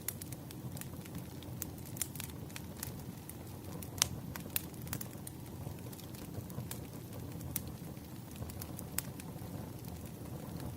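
Campfire crackling: a steady low rustle of burning wood with irregular sharp pops and snaps, the loudest about four seconds in.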